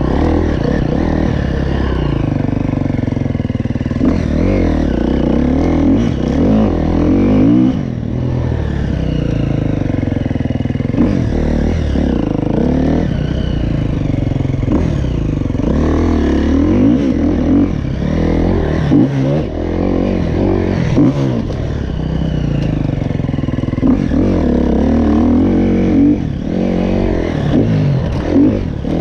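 KTM 350 SX-F motocross bike's 350 cc single-cylinder four-stroke engine under riding load, the throttle opened and closed over and over so the engine note climbs and drops again and again.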